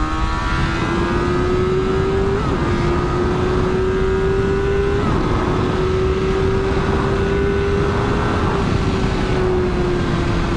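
Honda CBR600RR inline-four sport bike engine pulling hard to pass, its pitch climbing and dipping briefly at three quick upshifts, then easing off slightly near the end. Wind rushes over the helmet-mounted microphone.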